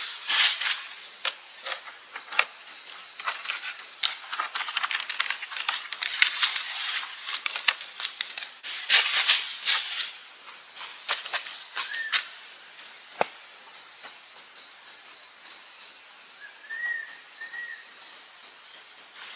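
Dry leaves and twigs rustling and crackling as they are handled, in irregular bursts that thin out after about ten seconds. Under it runs a steady high-pitched insect drone, and a bird chirps briefly a few times in the second half.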